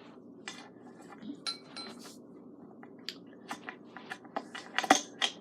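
Metal scooter parts and hand tools clinking and clicking as the back wheel and its axle bolt are fitted: a string of short sharp knocks, a few with a brief metallic ring, the loudest about five seconds in.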